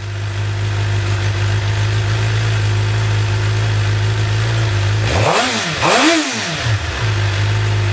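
Suzuki GSX-R 750 inline-four motorcycle engine idling through a Two Brothers M2 aftermarket exhaust, then blipped twice in quick succession about five seconds in, the pitch rising and falling with each rev before settling back to idle.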